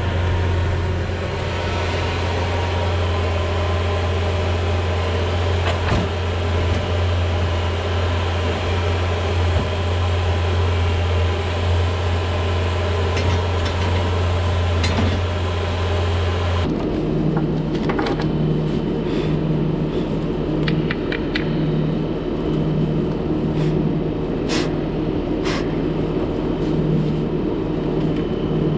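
Bobcat T595 skid steer's diesel engine running steadily with a deep drone. About two-thirds of the way through, the sound changes abruptly to a different, pulsing engine drone with a few sharp clicks.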